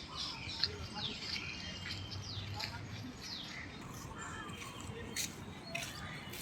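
Birds calling in a park, a string of short chirps that fall in pitch, several of them overlapping.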